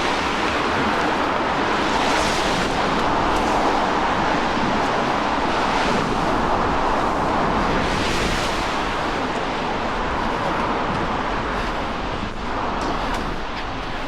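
Steady hiss of rain on a wet city street, with vehicle tyres swishing past on the wet road, swelling about 2, 6 and 8 seconds in.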